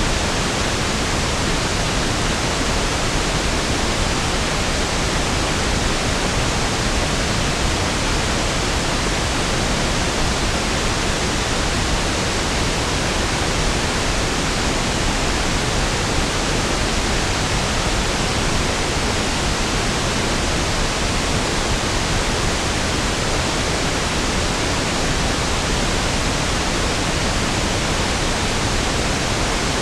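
Steady pink noise, an even hiss with equal energy per octave that sounds smoother and deeper than white noise, unchanging throughout.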